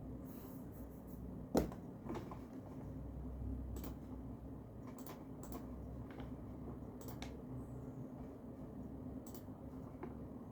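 Scattered light clicks and taps from desk work, the loudest about one and a half seconds in, then half a dozen fainter ticks, over a steady low room hum.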